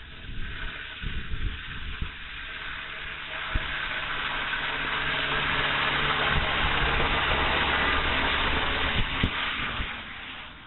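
Airliner engines growing steadily louder as the aircraft passes, then fading near the end, with wind buffeting the microphone in the first couple of seconds.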